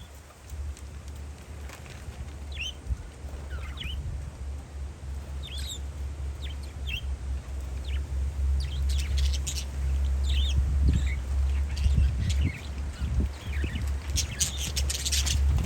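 Parakeets chirping in short, high calls, sparse at first and busier in bursts about nine and fourteen seconds in. Beneath them a steady low rumble of wind on the microphone, which strengthens after the first few seconds.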